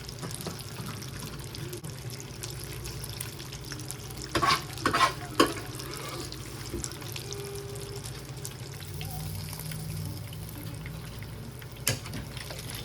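Chicken pieces frying in a pan, with a steady low hum underneath. A few sharp clatters come about four to five and a half seconds in, and one more near the end.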